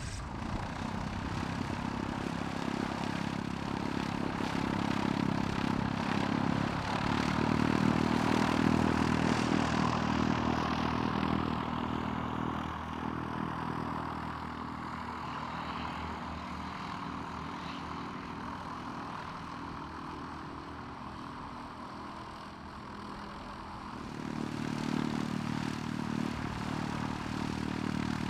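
Light propeller aircraft engine running. It grows louder to a peak about eight seconds in, then falls away in pitch and level as it passes, and swells again about 24 seconds in.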